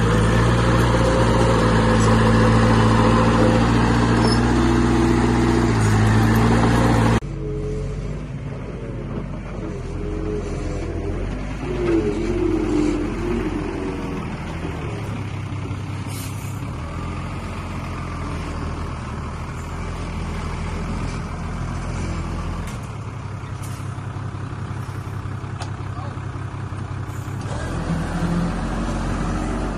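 Diesel engines of heavy earthmoving machinery running steadily. About seven seconds in, the sound cuts abruptly to a quieter engine with some wavering higher tones.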